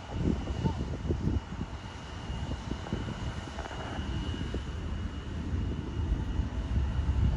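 Airplane engines rumbling with a low, crackling roar that grows a little louder near the end.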